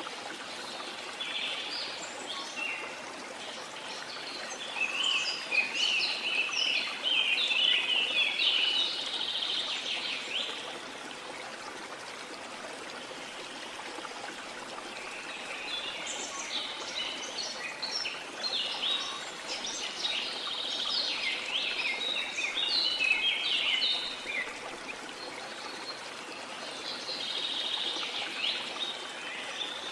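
Steady wash of sea water under small songbirds singing. The birds sing in quick, chattering bouts: one through the first ten seconds or so, another in the middle stretch, and a third starting near the end.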